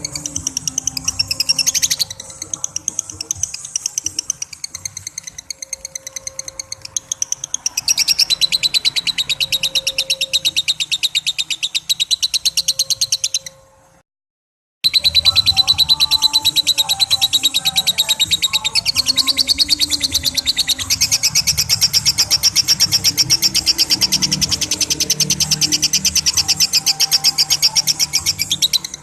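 Lovebird 'ngekek': a long, very fast, high chattering trill. It is quieter for a few seconds early on, breaks off into a second of silence about halfway through, then starts again louder.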